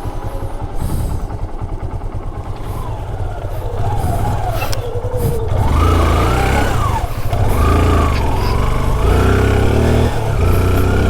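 Yamaha RX two-stroke single-cylinder motorcycle engine running at low throttle, then revved up and down several times from about four seconds in as it climbs the rough trail.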